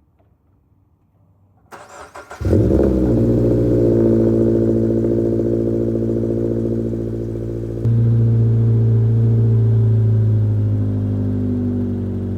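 2022 Toyota GR86's 2.4-litre flat-four boxer engine, fitted with a Remark axle-back exhaust, cold-starting: about two seconds in the starter cranks briefly, then the engine catches and settles into a loud, steady high cold-start idle. Its note gets louder about eight seconds in.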